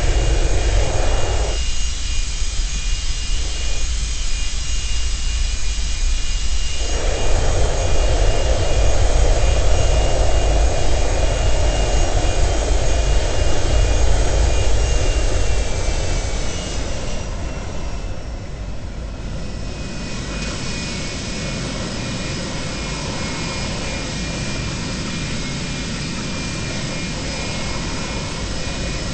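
Boeing 737-200's Pratt & Whitney JT8D jet engines running with a loud steady rush and a high whine. About sixteen seconds in the sound eases and the whine drops slightly in pitch, as the engines wind down to a lower power setting.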